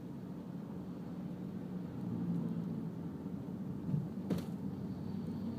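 Car driving, a steady low rumble of engine and road noise, with one sharp click about four seconds in.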